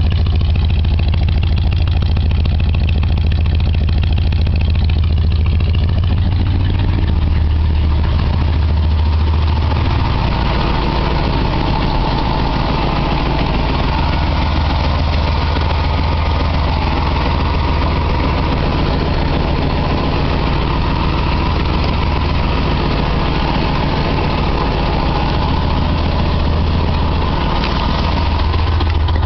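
1966 Ford Galaxie 500's 390 cubic-inch V8 idling steadily after a cold start, the idle shifting slightly a few times as it warms.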